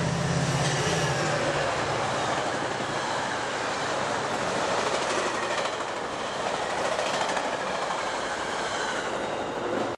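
A train passing close by, its cars rolling over the rails with a steady rumble and a faint high wheel whine. A locomotive's low engine hum fades out about a second and a half in, and the sound cuts off abruptly at the end.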